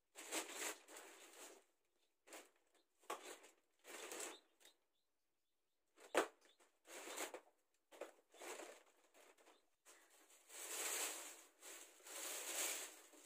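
Close-up eating sounds: chewing and mouth smacking in irregular short bursts as a mouthful of rice and fried milkfish is eaten by hand, with a sharp click about six seconds in.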